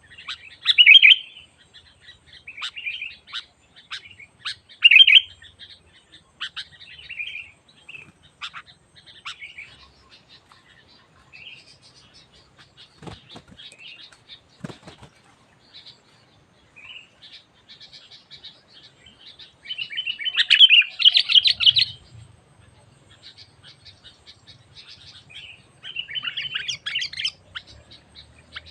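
Sooty-headed bulbul (kutilang) calls: short bubbly phrases at irregular intervals, with a longer, louder burst of chattering about two-thirds of the way in and another near the end. There are two sharp clicks midway.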